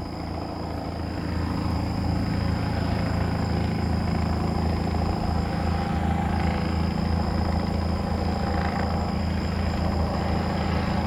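Helicopter droning steadily, a low rotor and engine sound that grows a little louder over the first two seconds, then holds.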